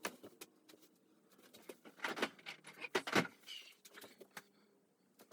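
Rummaging through drill bits and small tools: light clicks and rattles with some rustling, louder twice around two and three seconds in.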